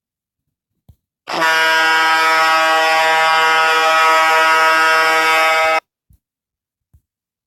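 A loud, steady horn-like blast at one low pitch, held for about four and a half seconds and cutting off suddenly.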